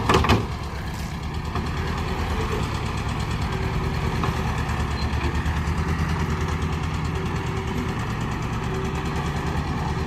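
A vehicle engine running steadily with an even, fast throbbing pulse. A short clatter sounds right at the start.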